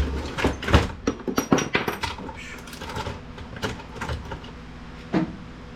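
Clicks and knocks of plastic and metal printer parts being handled and pulled apart, busiest in the first two seconds, then a few scattered knocks.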